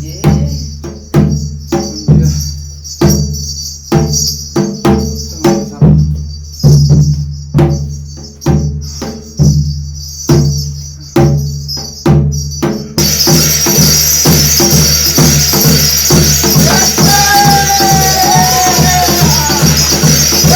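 Percussion for a Korean shamanic gut ritual. Deep drum strokes come about once a second, each dying away, over steady metallic jingling. About 13 seconds in, the playing turns fast and dense, and a wavering pitched melody line enters near the end.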